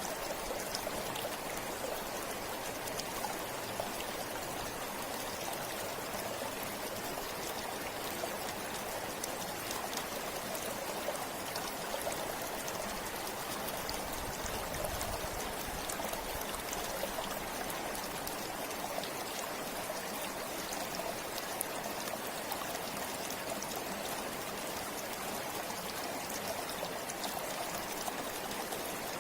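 River flowing steadily over rocks, a continuous rushing with small splashes and trickles throughout.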